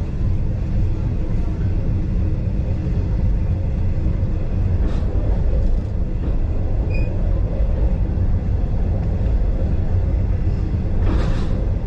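Passenger train carriage running along the line, heard from on board: a steady low rumble of wheels on rail, with a few faint clicks and a brief louder hiss near the end.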